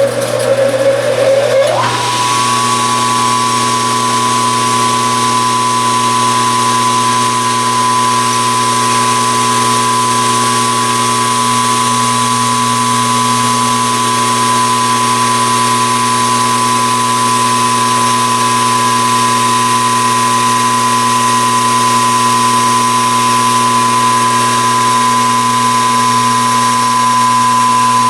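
Machine tool's electric motor running: its whine climbs in pitch over the first two seconds as it comes up to speed, then holds steady.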